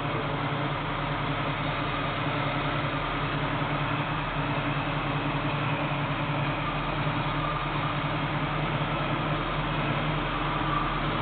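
1967 Chevelle SS's 396 big-block V8 idling steadily.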